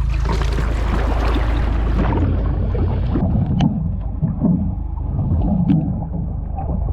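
Jet ski engine running on the water, a steady low hum with uneven water sloshing and splashing over it.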